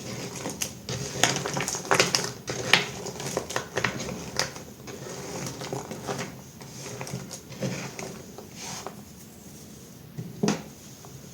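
Knife cutting through soap: a run of crisp crackles and clicks, densest in the first half and thinning out, with one sharper click near the end.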